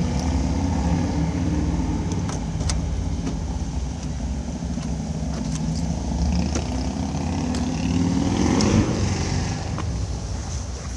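A car engine running close by with a steady low hum, swelling to a peak about nine seconds in, then dropping back.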